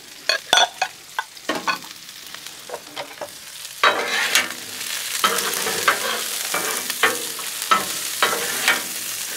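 Sliced bell peppers and onions sizzling in butter and oil on a Blackstone flat-top griddle, with metal spatulas clacking and scraping on the steel as they are tossed. A few separate clinks come first. About four seconds in, the sizzle grows louder, with a spatula strike about every half second.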